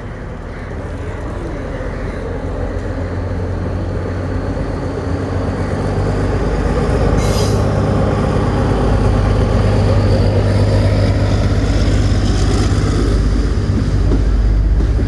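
Diesel train approaching on the track, its engine hum and wheel rumble growing louder over the first half and then running steadily loud, with a short hiss about halfway through.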